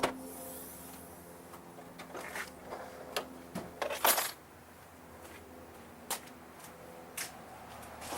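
Scattered knocks and clunks of things being handled, a few seconds apart, over a faint steady hum.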